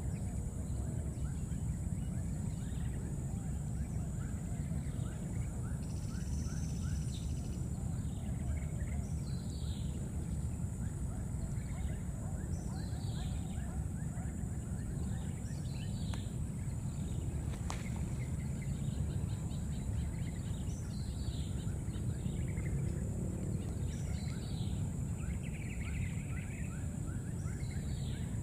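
Outdoor ambience: a steady low rumble, with a bird repeating a short falling chirp every second or two and faint bursts of rapid ticking calls.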